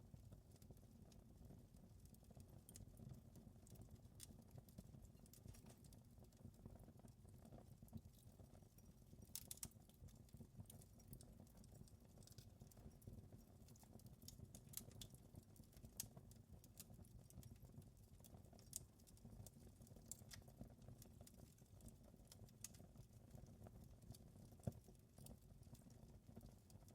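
Faint wood fire crackling in a fireplace: irregular small pops and snaps over a low steady rumble, with a few sharper pops.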